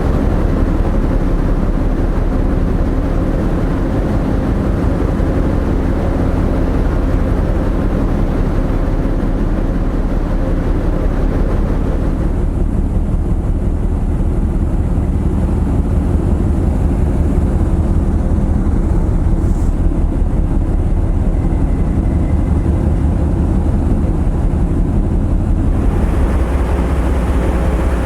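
A passenger car ferry's engines running steadily, a loud, deep, even rumble with a faint hum, heard on the open deck under a higher rushing noise. The rushing noise drops away about twelve seconds in and comes back near the end, leaving the deep rumble alone in between.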